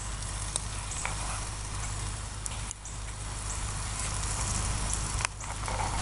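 Open campfire crackling with sausage sizzling over it: a steady hiss broken by a few sharp pops.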